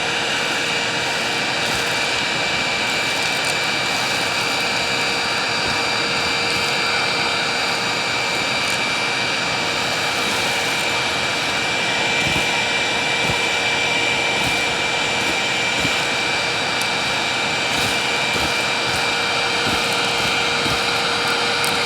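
Hoover WindTunnel self-propelled upright vacuum cleaner running steadily: a constant motor whine over the rush of air, with a few faint ticks.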